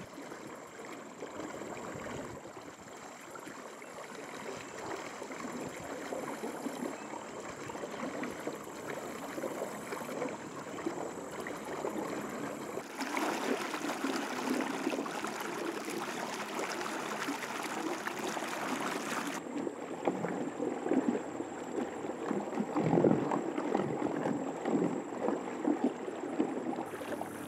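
Water gurgling and splashing along the hull of a small inflatable boat under way, growing somewhat louder toward the end, with a thin steady high whine through much of it.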